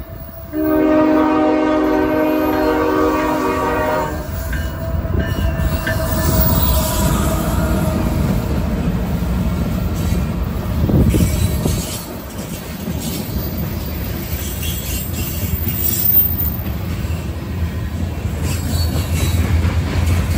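A CSX freight train's horn sounds a multi-note chord, cutting off about four seconds in. The diesel locomotive then rumbles past at close range, followed by freight cars rolling by with wheels clicking over the rail joints.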